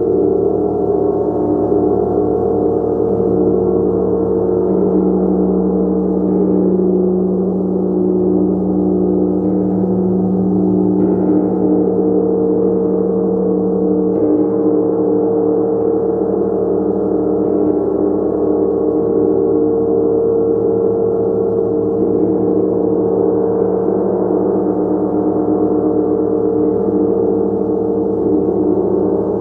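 Gong played continuously, a dense sustained wash of many overlapping ringing tones, mostly low and middle pitches, at a steady loudness throughout.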